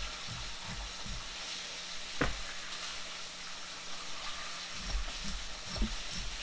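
Chicken frying in hot oil: a steady sizzle, with a single sharp click about two seconds in.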